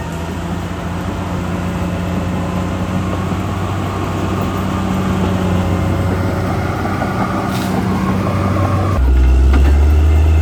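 Caterpillar D6R XL bulldozer's diesel engine running steadily with a rough, grinding noise over its hum. About nine seconds in, the sound changes abruptly to a deeper, louder hum.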